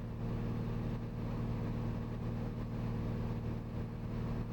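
Steady cabin drone of a Cirrus SR22T's turbocharged six-cylinder engine and propeller on final approach: an even low hum with a constant hiss over it.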